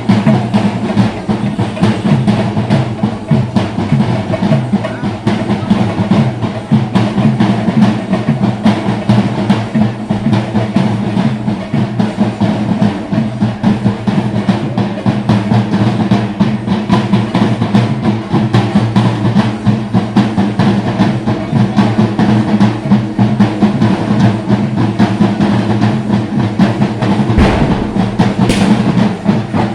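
Chenda drums beaten in a fast, continuous roll, the kind of temple drumming that accompanies a Thira (Theyyam) performance, with a steady low hum beneath.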